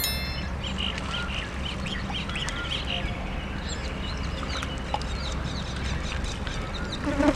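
Birds calling over and over in short chirps and rising-and-falling calls, over a steady low background noise. A bell chime sound effect is fading out at the very start, and a brief louder sound comes near the end.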